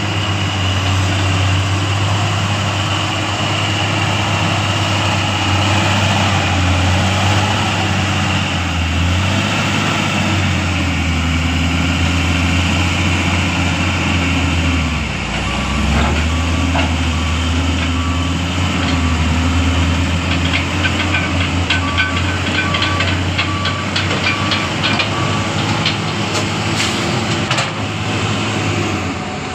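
Truck engine running steadily, its pitch dipping and rising about halfway through. A repeating beep sounds for several seconds in the second half, about two a second, and a cluster of clicks follows near the end.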